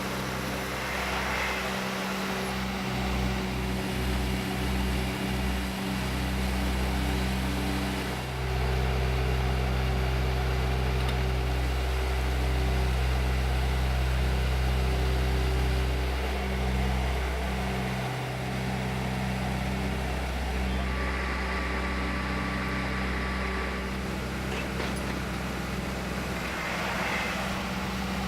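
A vehicle engine running steadily with a low, even hum that shifts slightly in pitch a few times.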